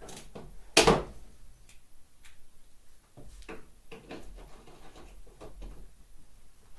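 Workshop handling noise from dismantling a trailer: one loud knock about a second in, then scattered lighter knocks and clicks of parts and tools being moved.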